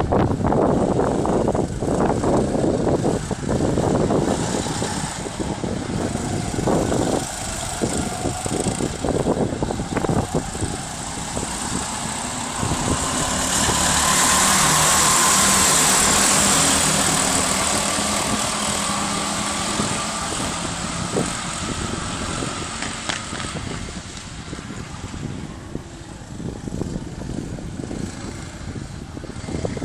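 Go-kart engines running on a track, with one kart passing close, loudest about halfway through before fading away. Wind buffets the microphone in the first half.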